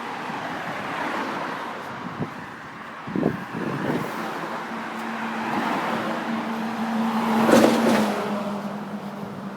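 Road traffic with a car passing close, its tyre and engine noise building to a peak about three-quarters of the way through and then fading. A steady low hum sets in about halfway, and there are a few short knocks early on.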